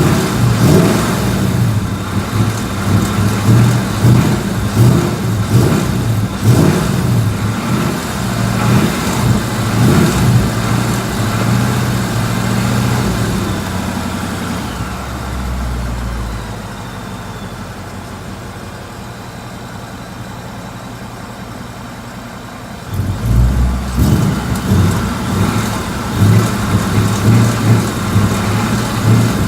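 Ford Mustang GT's 5.0 Coyote V8 on stock exhaust, revved in repeated throttle blips, settling to a steady idle for about eight seconds midway, then revved again. On the falling revs after each blip there is a faint tick, which the owner takes for an engine tick returning after a new short block.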